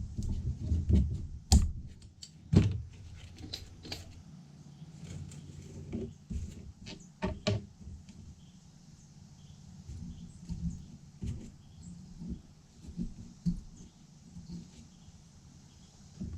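Metal starter parts and tools clicking and knocking as they are handled and fitted together on a bench, with two louder knocks in the first few seconds and scattered lighter taps after.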